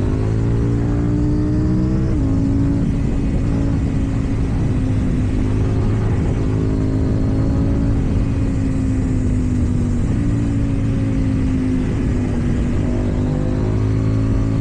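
KTM Duke 790's parallel-twin engine through an Akrapovic exhaust under way. The revs climb for about two seconds, drop sharply with a gear change, then hold fairly steady and ease off, before climbing again near the end.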